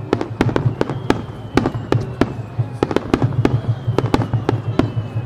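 Starmine fireworks: aerial shells bursting in quick succession, about three or four sharp bangs a second.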